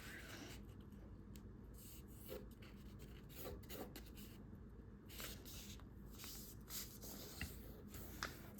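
Faint rustling and rubbing of a half sheet of A4 paper being folded edge to edge, the crease smoothed down by the fingers in a few soft strokes.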